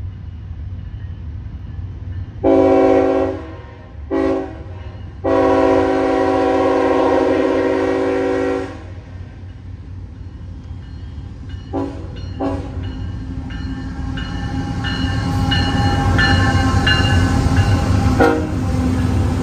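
Diesel freight locomotive's air horn: a long blast, a short one and a long held blast, then two brief toots. The locomotives' engines rumble underneath, growing louder as the train approaches.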